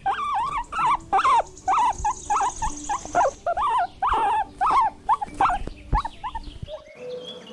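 Guinea pig squeaking: a rapid run of short, high squeaks, each rising and falling in pitch, until about seven seconds in, when a steady hum takes over.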